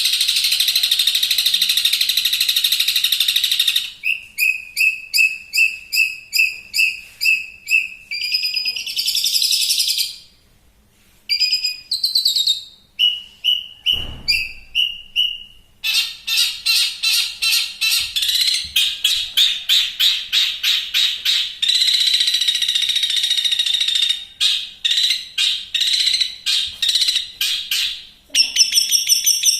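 Long-tailed shrike (cendet) singing a rapid, varied song. It opens with a harsh rasping chatter, then goes into runs of quick repeated notes at about three to four a second, broken by short pauses. A brief low thump comes about halfway through.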